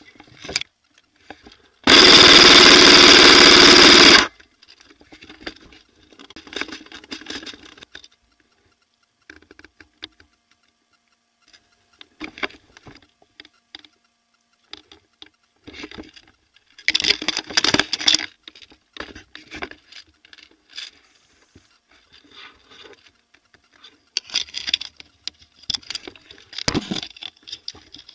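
Airsoft electric gun firing one long full-auto burst of about two seconds. Shorter, quieter bursts, clicks and rustling follow, with a denser spell near the middle.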